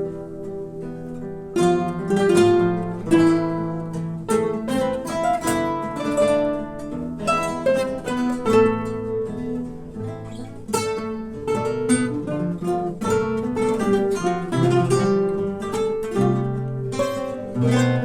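A guitar ensemble playing a song arrangement: plucked acoustic guitar notes carrying a melody over a line of bass notes.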